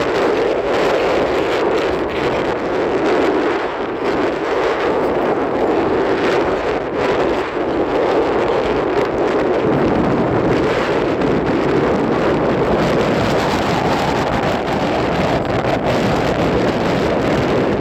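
Strong wind blowing across the microphone: a loud, steady rush and rumble.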